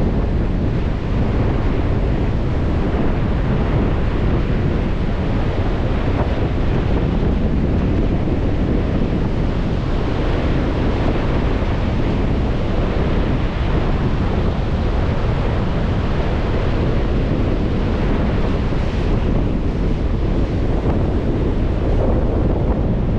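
Strong wind buffeting the microphone, mixed with the steady wash of lake waves breaking on the shore.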